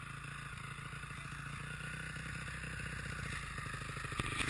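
Dirt bike engine running steadily in the distance, growing slowly louder.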